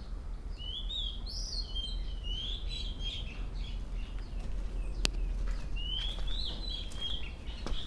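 A songbird singing two warbling phrases of quick rising and falling notes, a few seconds apart, with a single sharp click between them.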